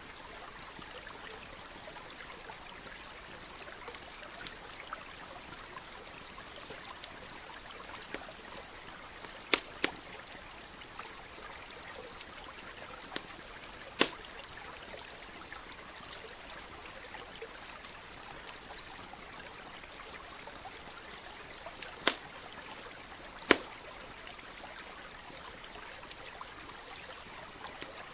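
Wood campfire crackling with scattered small ticks and a handful of sharp, loud pops, over the steady rush of a nearby stream.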